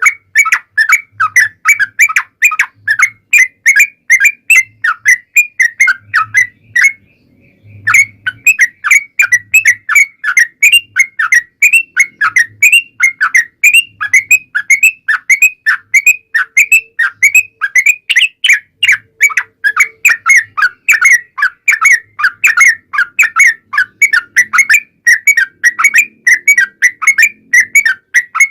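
Yellow-vented bulbul (trucukan) singing a long, unbroken run of quick chattering whistled notes, about three a second, with one short break about seven seconds in. This is the 'ropel panjang' lure song that is played so that kept trucukan answer.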